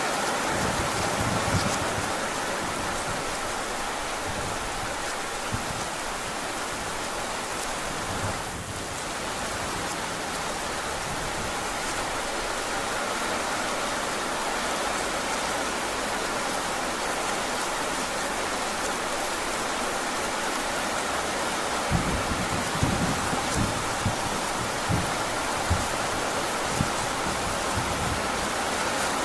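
Heavy rain falling steadily, with a string of short low thuds about three quarters of the way through.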